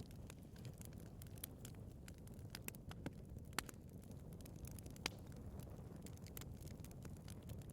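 Wood fire burning in a fireplace, crackling with irregular small pops over a low steady rumble. Two sharper pops come about halfway through.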